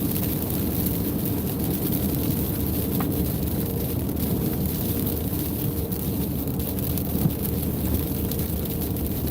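Steady road and engine noise inside a moving car's cabin, a continuous low rumble with a hiss, as the car drives on a wet, icy freeway.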